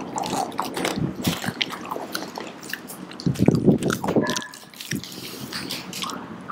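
People biting and chewing chocolate bars, with scattered crisp crunches and clicks.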